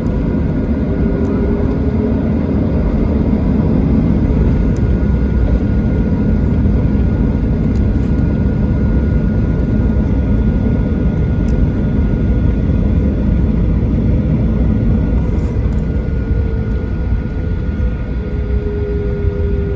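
Cabin noise inside a Boeing 737-800 on the ground before takeoff: a steady, loud rumble from its CFM56 jet engines running at low power, with a faint steady whine above it.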